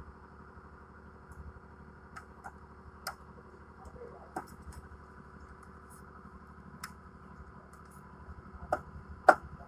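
Scattered sharp clicks and taps, about seven of them, the loudest near the end, from hand tools working on the metal casing of an air conditioner as it is opened, over a steady low hum.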